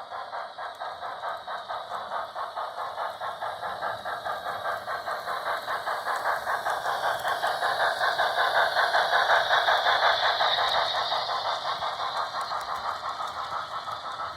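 HO scale Broadway Limited Paragon 3 Pennsylvania Railroad K4s model steam locomotive running, its sound decoder giving a steady chuff about three times a second with the clatter of the train on the track. It grows louder toward about two-thirds of the way through, then fades as the train passes and moves away.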